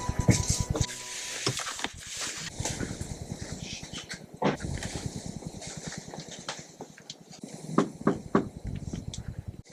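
Black Lab puppy making small noises as it moves about, with irregular light clicks and rustling.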